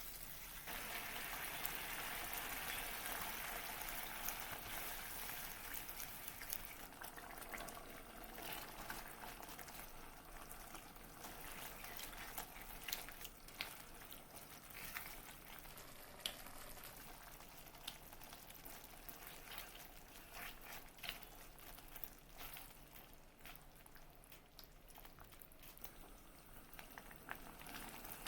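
Food cooking in a pan or pot, a steady bubbling hiss that is strongest for the first several seconds and then fades, with scattered light clicks of utensils.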